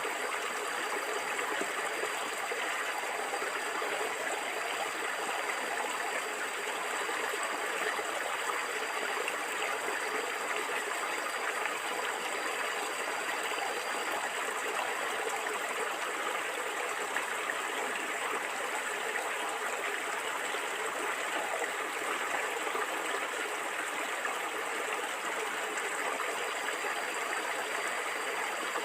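A stream of flowing water gurgling steadily and evenly, with no pauses or changes.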